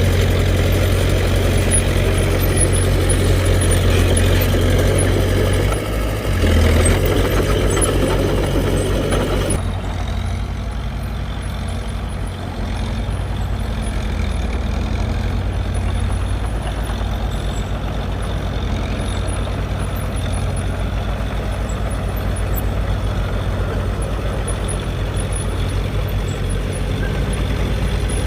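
Heavy earthmoving machine's diesel engine running steadily. For about the first ten seconds a louder, rougher working sound rides over it, then drops away suddenly, leaving the engine running more quietly.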